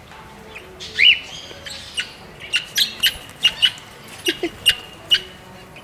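Caged parakeets and cockatiels calling: one rising-and-falling whistled call about a second in, then a run of short, sharp chirps, several a second, until about five seconds in.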